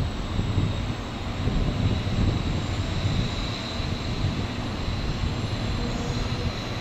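0 Series Shinkansen bullet train running slowly into a station as it brakes: a steady low rumble of the train with a thin high whine over it.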